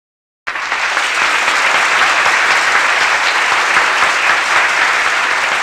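Audience applauding steadily, cutting in abruptly about half a second in.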